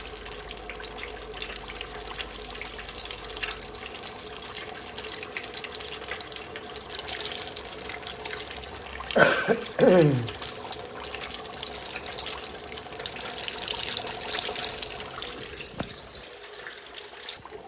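Water running from a tap into a sink. About nine seconds in there is a loud falling sweep, the loudest thing here, and near the end the flow stops with a click.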